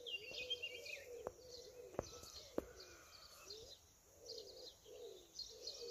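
Small birds chirping in faint, scattered calls, with a pigeon's low cooing repeating underneath: the ordinary birdsong of an early morning. Three sharp ticks come in the first three seconds.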